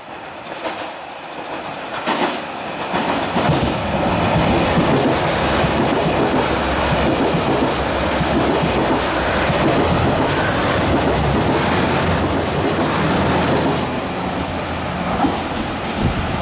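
KiHa 281 series diesel limited express passing through a station platform at speed without stopping. It grows louder from about two seconds in and is loud through most of the rest, with a steady low engine hum under the running noise.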